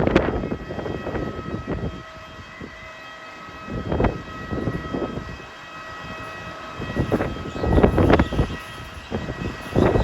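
Strong wind buffeting the microphone in gusts, over a steady high machine whine.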